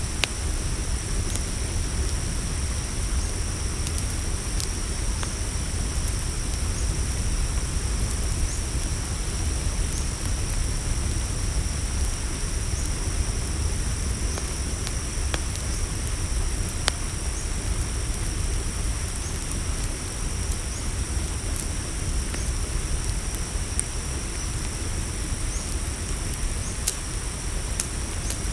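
Campfire crackling, with scattered sharp pops over a steady low rumble, while crickets chirp steadily in two high pitches.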